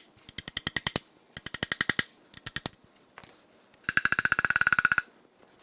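Impact wrench hammering on the connecting-rod bolts of a 5.7L Vortec V8 in four short bursts of rapid metallic blows, the last and longest a little after the middle, with a ringing clank.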